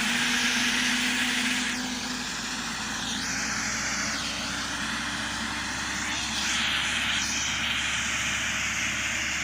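Tractor towing a gang reel mower across grass: a steady rushing whir of engine and spinning cutting reels that shifts in tone as it moves, with a slight dip in level at about 2 s and a rise again at about 6.5 s.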